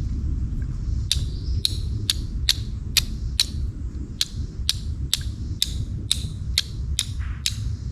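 Flint struck against a steel striker to throw sparks onto char cloth: about fourteen sharp, high clicks at roughly two a second, starting about a second in and stopping just before the end.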